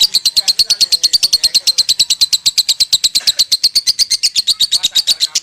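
Lovebird's 'konslet' song: a long, unbroken, rapid chattering trill of high chirps at about ten a second, going on without a pause.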